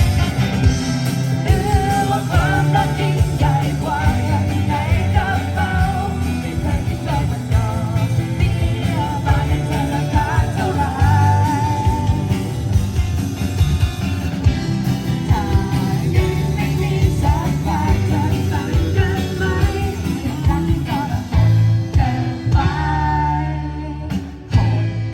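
Band playing a rock song, with a singing melody over guitar, bass and drums. The music dips briefly just before the end.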